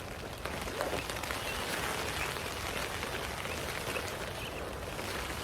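Steady rain pattering on the tent roof, heard from inside the tent.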